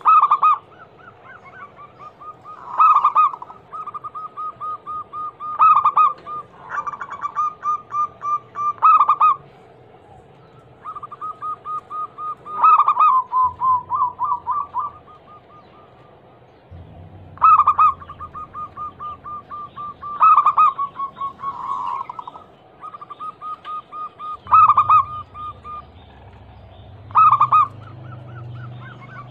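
Zebra dove (perkutut) cooing: quick runs of short, pulsed coos broken by a louder accented note about every three seconds, the bird's rhythmic song.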